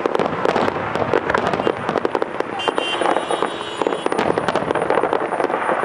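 Aerial fireworks shells bursting in quick succession: a dense, continuous string of bangs and crackles.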